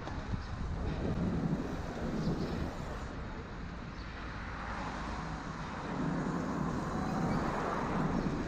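Street traffic noise heard from a moving bicycle: a steady rumble of passing vehicles that grows a little louder about six seconds in.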